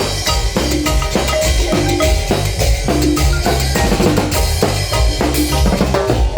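Marimba band music: quick struck marimba notes over bass and a drum kit keeping a steady dance beat.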